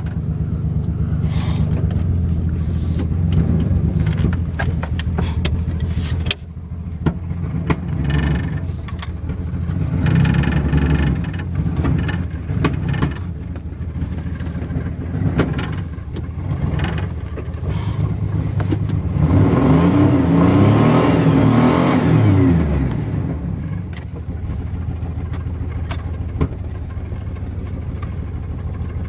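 Straight-piped exhaust of a 1995 GMC Sonoma pickup's engine running steadily, revved once about twenty seconds in, the pitch rising and then falling back to idle.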